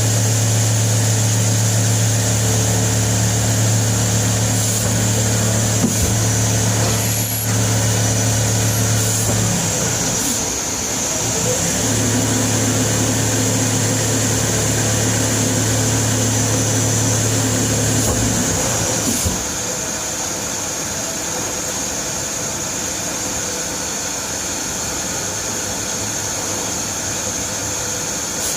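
CNC lathe running while turning a threaded pipe nipple, a steady machine hum with a high whine. The hum shifts about ten seconds in and drops away a little before twenty seconds, leaving a quieter running sound.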